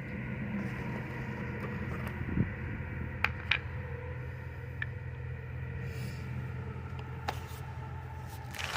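A steady machine hum with several even tones, broken by a few light clicks and taps.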